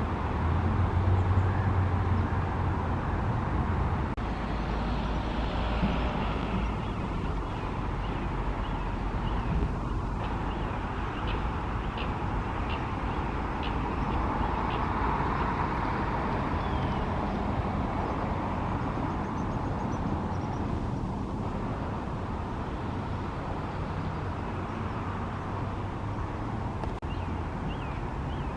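Outdoor background of steady distant road traffic, with a low vehicle rumble in the first few seconds. A few short high chirps come in the middle.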